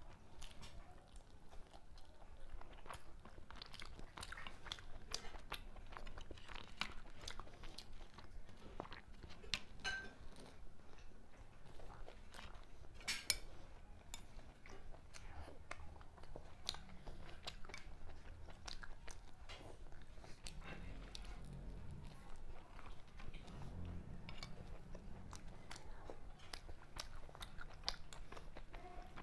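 Close-miked eating of chicken stew: chewing and mouth sounds with many irregular small clicks, one click about halfway through louder than the rest.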